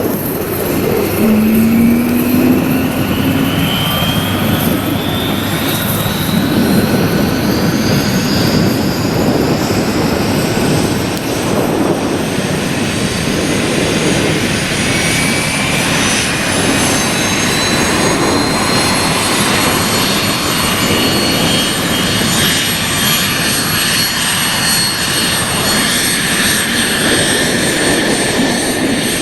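The four turbofan engines of an Avro RJ100 airliner spooling up. Their whine rises in pitch over the first several seconds and then holds steady over a loud, constant rush.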